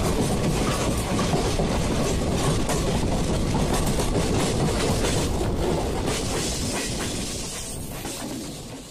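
Two Indian Railways passenger trains rolling side by side on adjacent tracks, heard from an open coach door: steady rumble of steel wheels with clickety-clack over rail joints. The sound fades away near the end.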